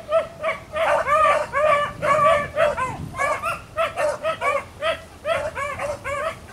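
A pack of beagles giving cry while running a cottontail rabbit's track. Short, arching barks come about three to four a second from two or more dogs at different pitches, overlapping most thickly a second or two in.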